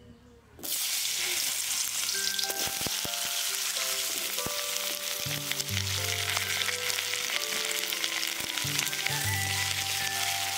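Chopped potato sticks dropped into hot oil in a karahi, bursting into a loud sizzle about half a second in and then frying with a steady hiss.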